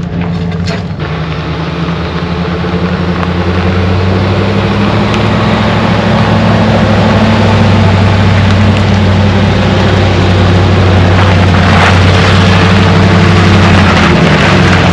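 A vehicle engine running with rushing road noise: a steady low hum that grows louder over the first several seconds, then holds.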